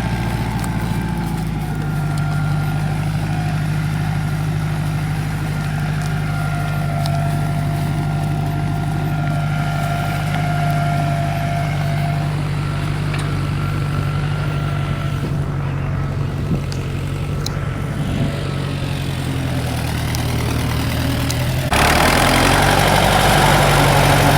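Tractor engine idling steadily. Near the end a louder rushing noise suddenly sets in over the engine.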